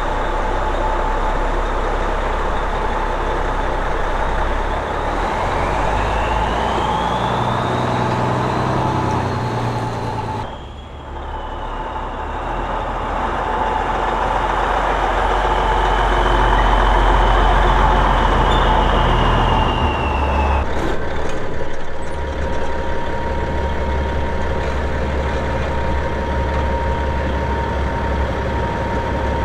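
Heavy diesel engine running steadily, with a high whine that rises in pitch and then holds. The sound dips briefly about ten seconds in, and about twenty seconds in it changes to a steadier hum with one fixed tone.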